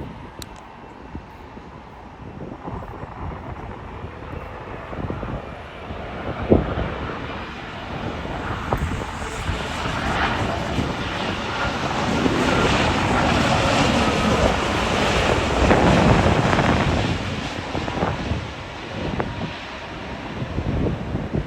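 Airliner's engines passing: a broad roar swells from about eight seconds in, is loudest around twelve to seventeen seconds, then eases off. A sharp thump comes about six and a half seconds in.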